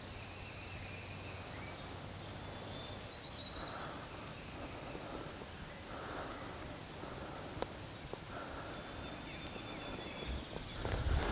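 Quiet outdoor spring ambience: a steady high-pitched insect-like drone with a few faint calls a few seconds apart, and rustling starting near the end.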